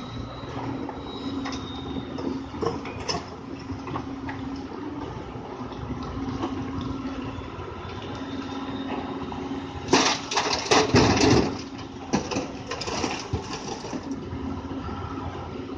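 Doosan DX 200 A excavator's diesel engine running steadily. About ten seconds in comes a loud burst of rock and soil clattering and pouring as material is handled in the bucket, with lighter clatter for a few seconds after.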